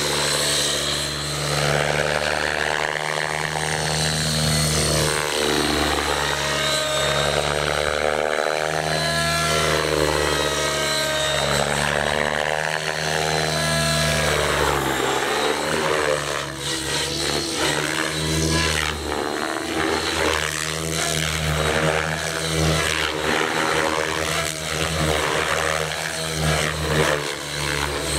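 Align T-REX 700 DFC electric radio-controlled helicopter in flight: its rotor blades drone continuously, the pitch swinging up and down over and over as it manoeuvres and passes by, with a thin steady high whine above.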